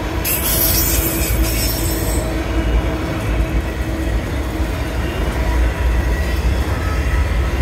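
Freight train of autorack cars rolling past close by: a steady, loud rumble of wheels on rail, with a burst of high hiss over the first two seconds.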